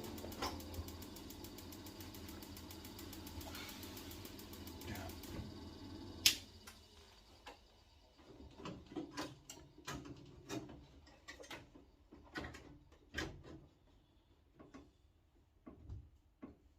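A steady hum with fast, even ticking that stops at a sharp click about six seconds in. Then scattered light clicks and knocks of hands handling boiler parts and fittings.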